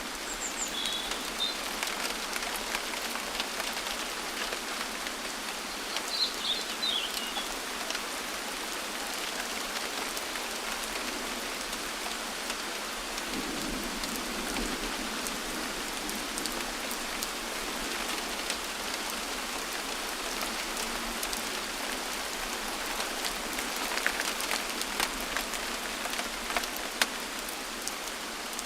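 Steady rainfall with many individual drops tapping close by. Two brief high chirps come through, one about a second in and one about six seconds in.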